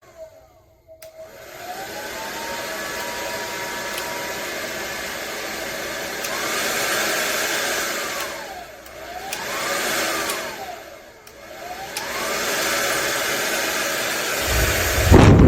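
Hand-held hair dryer switched on about a second in, its motor whine rising to a steady blowing hiss. The level and pitch sink and come back up twice. Near the end, a loud low rumble of the airstream hits the microphone.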